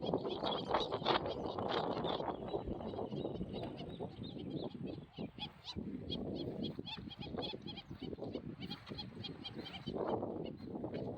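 Many small birds chirping in quick, short high notes, over lower jumbled noise that is loudest in the first couple of seconds and again about ten seconds in.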